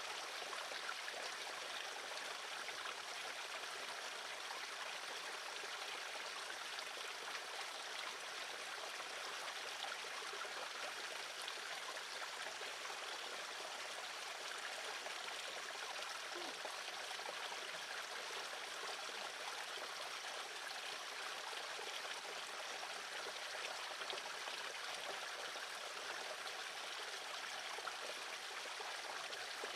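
Steady noise like running, trickling water, even throughout.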